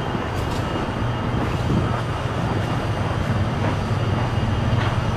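Semi truck's diesel engine idling, a steady low hum under a wash of outdoor noise.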